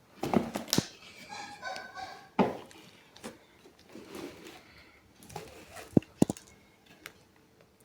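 Scattered clicks, taps and knocks from handling the cardboard box of a hair dryer. Faint chirp-like tones are heard in the first couple of seconds.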